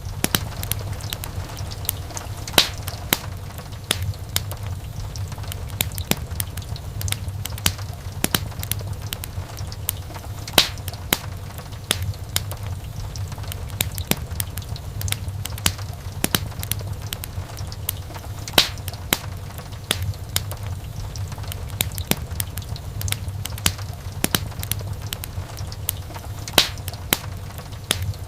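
Wood fire crackling: a steady run of small sharp snaps over a low rumble of the burning fire, with a few louder pops about every eight seconds.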